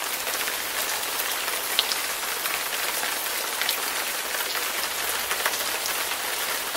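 Steady hiss of rain falling on a surface, with scattered small drop ticks.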